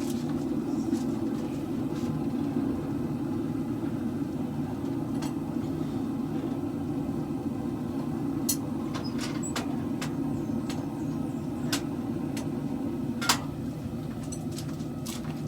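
A forge running with a steady low roar, with scattered sharp clicks and ticks of metal over it, the sharpest about thirteen seconds in.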